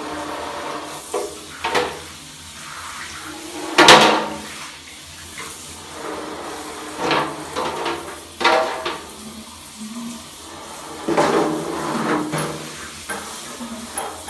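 Clattering and knocking of birdcage parts and trays being handled and cleaned: a series of separate knocks and clacks, the loudest about four seconds in.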